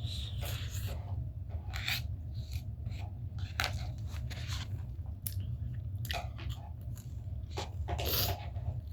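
Close-miked chewing of fried and scrambled egg: irregular wet mouth clicks and smacks, with a louder smack about three and a half seconds in and another near the end, over a steady low hum.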